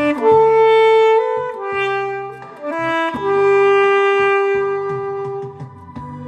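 Alto saxophone playing a slow melody of held notes over a backing track with bass and accompaniment. There is one long sustained note in the middle.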